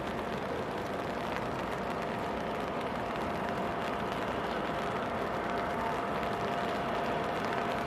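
Steady hiss of heavy rain, with a faint steady whine running through it.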